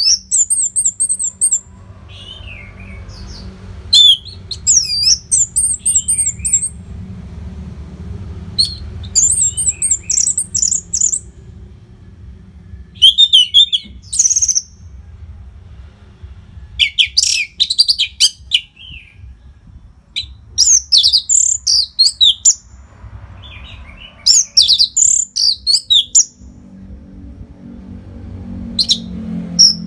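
Orange-headed thrush singing: about eight short bursts of rapid, high, twisting whistled phrases, one every couple of seconds, over a faint low hum.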